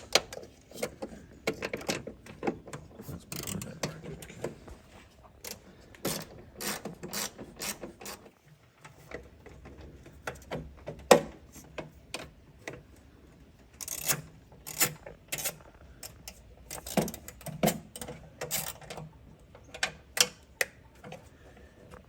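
Ratchet wrench clicking in short runs, with hand tools clinking on metal, as the bolts of a Porsche 996's secondary air injection pump are run in.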